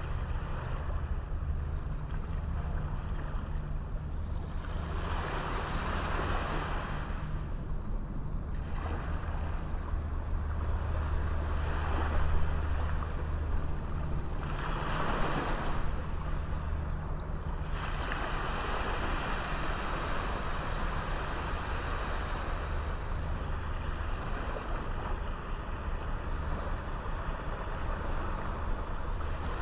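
Small sea waves breaking and washing up a beach, the surf swelling and falling back every few seconds over a steady low rumble.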